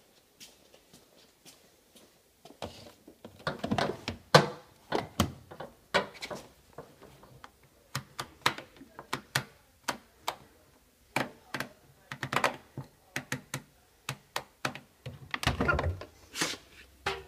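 A run of irregular mechanical clicks and knocks, sparse at first and then frequent from about three seconds in, like a washing machine's controls and door being worked by hand.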